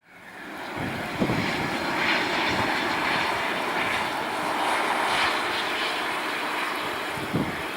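Jet engines of a Boeing 767-300ER airliner giving a steady, loud roar that fades up quickly at the start, with a couple of short low thumps.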